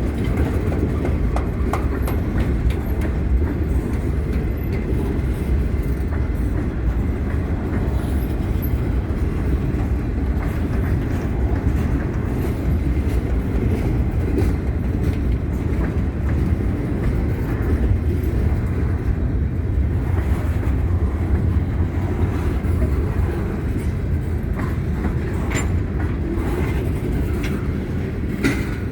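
CSX freight train rolling through at steady speed: a continuous low rumble of steel wheels on the rails, with scattered short clicks.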